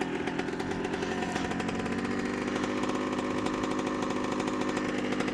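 2003 Kawasaki KX125's 125 cc single-cylinder two-stroke engine running steadily, its pitch barely changing.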